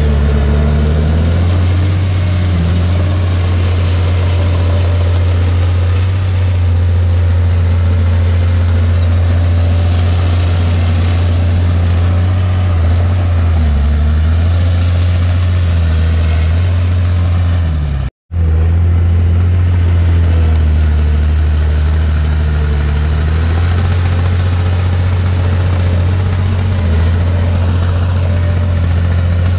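Heavy diesel engine of earthmoving machinery running steadily with a strong low hum, its pitch rising and falling slightly as it works. The sound cuts out for a split second about two-thirds of the way through.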